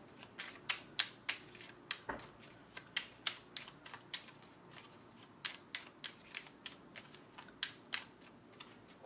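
A deck of Vera Sibilla Italiana oracle cards being shuffled by hand. The cards make irregular sharp snaps and flicks, about two to three a second.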